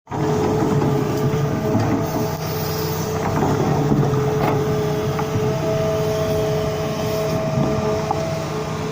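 Truck engine running steadily with a constant whine over it; a second, higher whine joins about halfway through.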